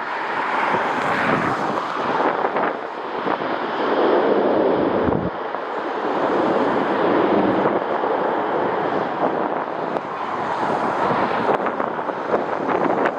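Strong gusty wind buffeting the microphone, a loud rushing noise that swells and eases in waves every few seconds.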